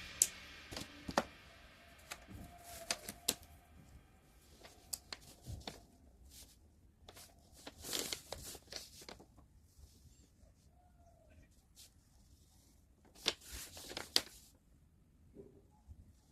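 Faint, scattered clicks, taps and short rustles of pens or markers being handled on sketchbook paper, with a few sharper clicks around eight and thirteen to fourteen seconds in.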